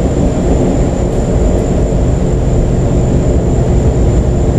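Steady, loud background drone with a low rumble and a few humming tones; nothing in it starts, stops or changes.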